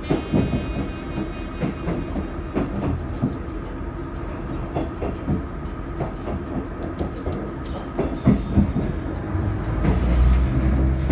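Diesel railcar running along the track, its wheels clicking and knocking over rail joints above a steady rumble. The low engine drone grows louder near the end.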